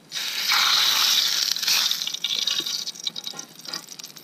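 Chicken breast laid in a hot frying pan over a campfire, sizzling loudly at once, the sizzle easing and sputtering unevenly after about two seconds.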